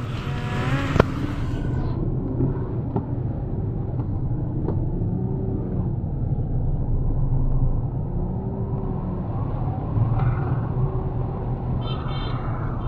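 Car driving, a steady low engine and road rumble, with a sharp click about a second in.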